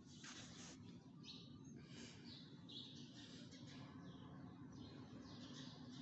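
Faint chirping of birds: a run of short, high calls, over a low steady background rumble.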